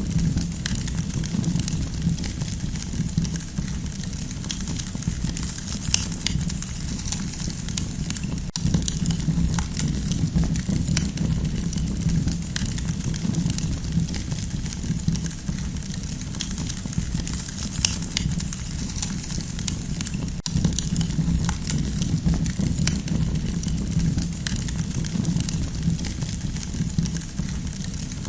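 Campfire burning, with many small irregular crackles and pops over a steady low rumble.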